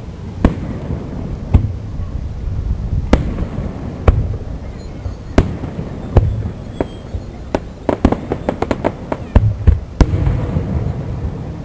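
Aerial firework shells bursting, with a sharp bang every second or so over a low rumble. About eight seconds in comes a quick string of crackling reports, then another bang.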